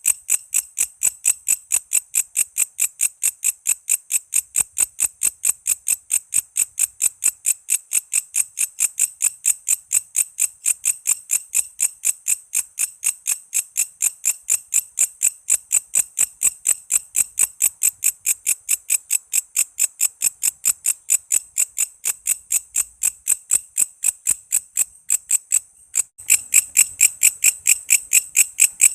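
Walang kece, a katydid, singing: a steady, even train of sharp high-pitched chirps, about four to five a second. Near the end the chirping breaks off for a moment and then resumes louder.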